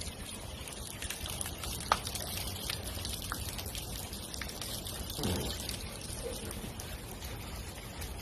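Water running and splashing steadily, with a sharp click about two seconds in and a brief louder burst a little past five seconds.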